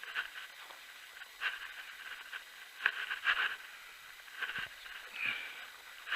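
Footsteps crunching in deep snow: a handful of short, irregular crunches about a second apart.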